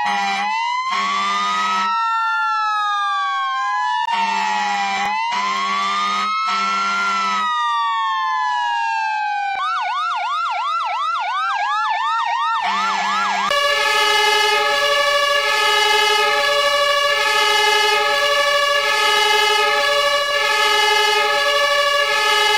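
Emergency-vehicle siren wailing up and down, overlaid with repeated low horn blasts, switching about 9 s in to a fast yelp of quick up-and-down sweeps, about three a second. From about 13 s a different sound takes over: a steady many-toned horn chord that pulses about once a second.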